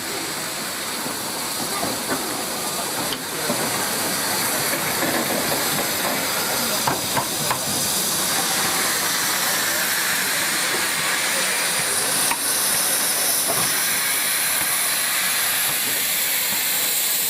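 Steam locomotive letting off steam in a steady loud hiss that grows louder a few seconds in, with a few sharp clicks.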